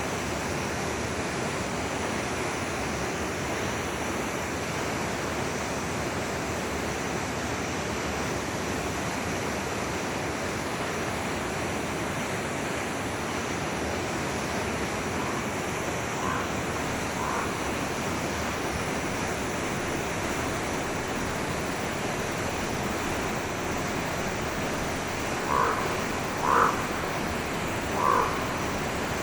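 Forest stream running, a steady even rush of water. Near the end a few short animal calls, about a second apart, sound over it.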